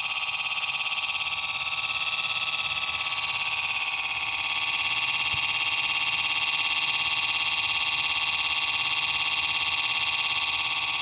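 LG refrigerator's freezer compartment making a loud abnormal noise: a steady, high-pitched buzz with a fast, fine pulsing, getting slightly louder about four seconds in.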